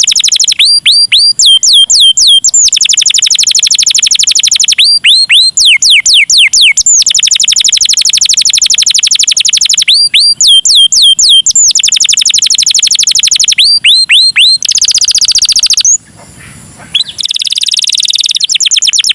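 Domestic canary singing loudly: runs of quick whistled notes that swoop down in pitch alternate with long, very fast rattling trills. The song briefly drops away about 16 seconds in, then the trilling resumes.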